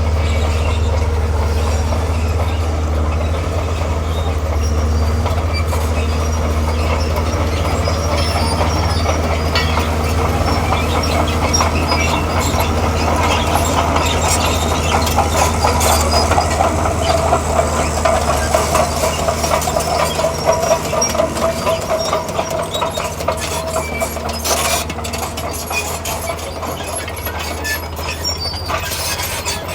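Diesel engine of a tracked earthmoving machine running steadily under work, with metallic clatter from the crawler tracks. A squealing tone rises in the middle and fades again.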